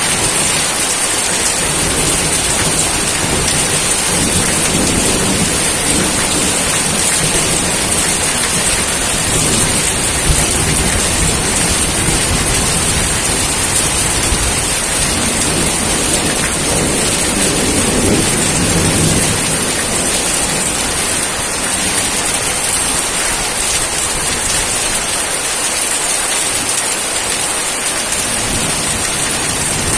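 Steady rain falling, with low thunder rolling through twice: a long rumble in the first third and another a little past the middle.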